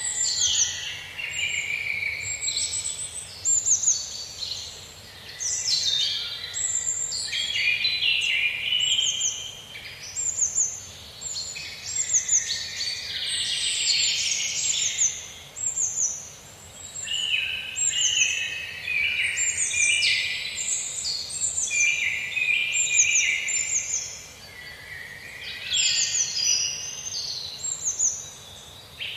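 Several songbirds chirping and singing at once, a dense, overlapping chorus of short high notes that sweep downward and quick trills, with brief lulls every few seconds.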